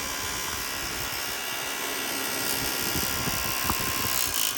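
Diesel heater blower fan motor running on a 12 volt supply: a steady high whirring whine whose pitch shifts near the end. The fan is failing and slowing down under power, which the owner puts down to a fault in the fan.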